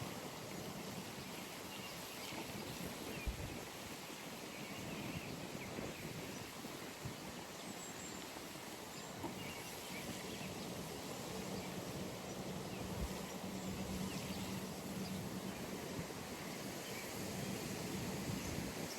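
Early-morning pond ambience: a steady outdoor hiss with faint, scattered bird chirps and a low hum that fades in and out. A soft knock comes about three seconds in, and another a little past the middle.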